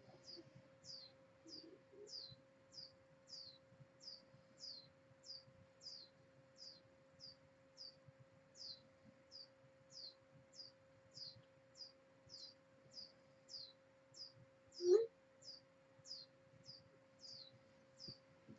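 A small bird chirping faintly and steadily, short high falling chirps about twice a second, over a low steady hum. A single louder squeak about fifteen seconds in.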